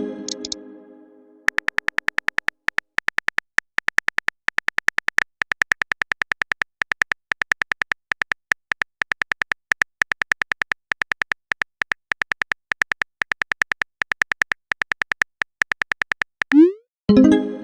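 Rapid clicking of a phone keyboard's typing sound effect, many clicks a second, running for about fifteen seconds. It sits between two message alert sounds, each a ringing synth chime, the second one just after a quick rising swoop near the end.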